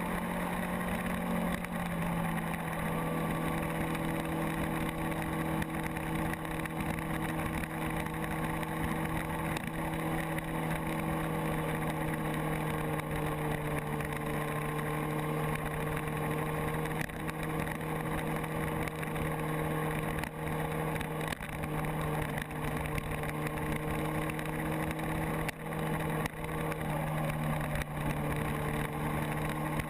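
Motorcycle engine running at a steady cruising speed, its note holding nearly constant with only slight rises and dips in pitch, over the rush of wind and road noise.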